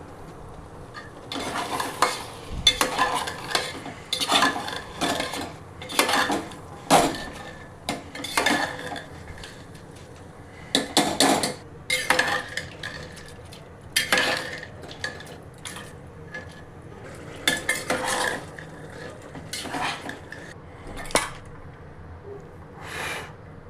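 A spoon stirring and scraping in a cooking pot, in irregular bursts of clanking strokes every second or two.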